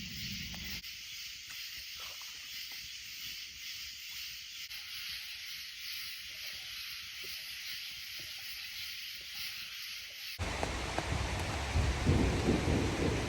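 Rain falling in a steady hiss. About ten seconds in it turns into a louder, heavier downpour with a deep rumble, as in a thunderstorm.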